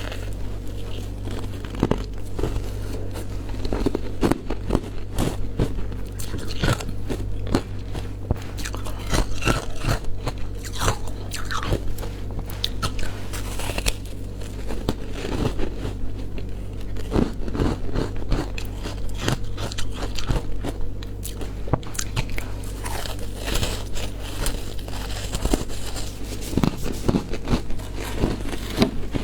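Frozen matcha ice being bitten and chewed: repeated, irregular crunches throughout, over a steady low hum.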